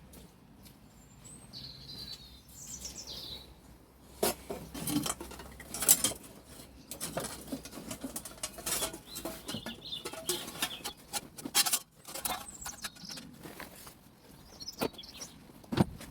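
Irregular metallic clinks, rattles and knocks from hands-on work on the engine and its parts, with a few bird chirps in the background about two seconds in and near the end.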